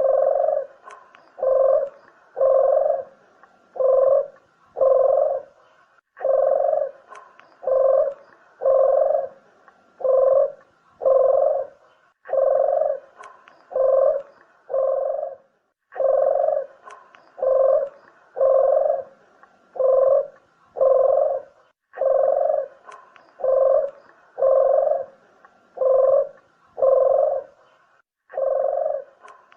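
Puter dove (collared dove) cooing: phrases of four or five low, even coos repeated about every six seconds, a call used to lure the birds.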